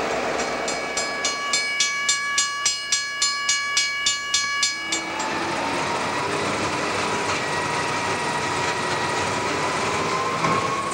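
Diesel train running, heard from the cab, with a railway bell ringing in quick, even strikes, about three or four a second, for about four seconds before it stops; the train then runs on steadily with a faint whine.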